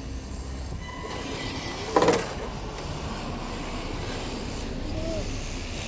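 A 1/10-scale RC car driving, its motor and drivetrain giving a steady whine that rises and falls with the throttle, with a brief louder sound about two seconds in.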